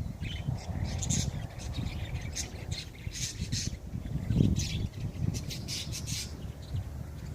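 Birds calling in short, high calls that come in irregular clusters, several close together about three seconds in and again a little after five seconds, over a steady low rumble.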